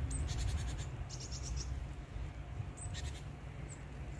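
Birds calling in short, rapid rattling chatters, twice in the first two seconds and once more about three seconds in, over a steady low rumble.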